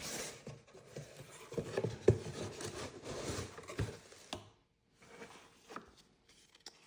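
Shower head packaging and parts being handled: irregular rustling, rubbing and light knocks, with one sharper knock about two seconds in and a brief silent gap just past halfway.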